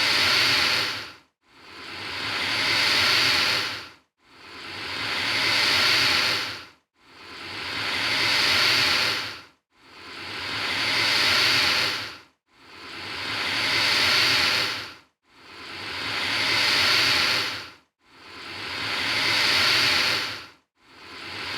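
Alligator hissing, the same hiss repeating about every 2.7 seconds, eight times in all: each one swells over about two seconds and cuts off sharply, with a brief silence before the next.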